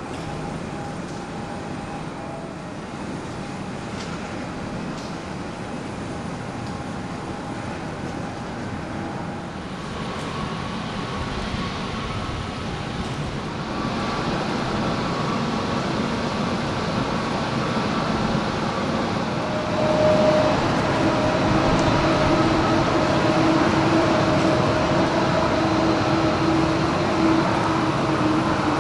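Airbus A321neo jet engines running with a steady rush. They grow louder in steps about a third of the way in and again about two-thirds of the way in, and several held whining tones come up as they do.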